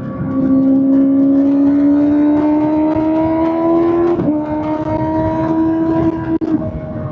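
Kawasaki ZX-6R inline-four engine through an SC-Project SC-1R exhaust, pulling with a slowly rising note. About four seconds in it shifts up quickly, the pitch dropping. It then holds steady before easing off near the end.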